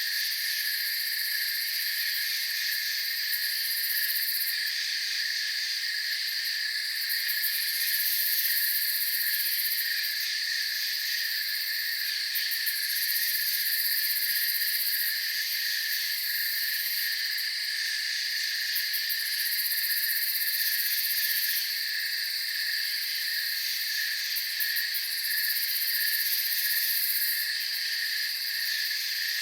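Night-time chorus of crickets chirring steadily at several pitches at once, with a very high layer that swells and fades every few seconds.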